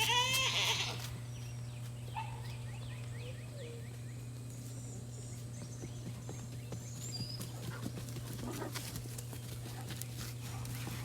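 Farm animal calls: one loud pitched call lasting about a second at the start, then a run of quick faint chirps about two seconds in and a few faint high bird calls, over a steady low hum.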